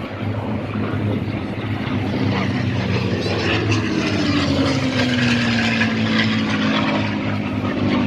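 Propeller-driven World War II fighter passing overhead, its piston engine running steadily with a drone that drops in pitch as it goes by, about halfway through.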